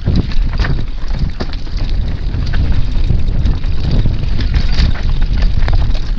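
Mountain bike riding fast over a rocky trail: wind buffeting the microphone with a steady low rumble, and the tyres and bike clattering over stones in many quick, irregular clicks and knocks.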